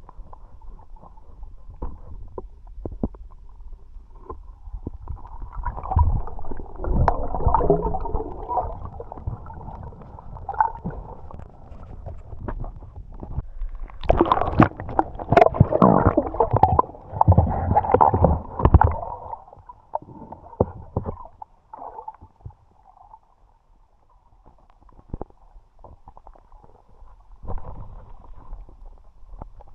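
Muffled gurgling and bubbling of water heard underwater, with scattered knocks and clicks. It swells into two louder bouts of bubbling, about six seconds in and again from about fourteen to nineteen seconds.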